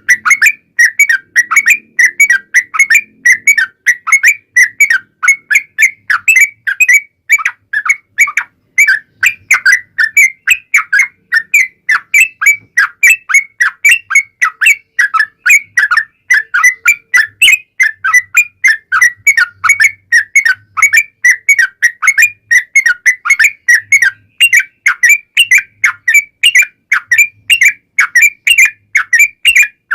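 Yellow-vented bulbul (trucukan) singing a long, unbroken run of short, quick whistled notes, several a second.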